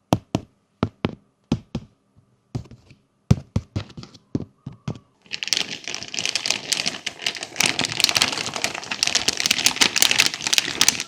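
Plastic toy pieces handled with a series of separate sharp clicks and taps. About five seconds in, dense continuous crinkling takes over, like plastic packaging being handled.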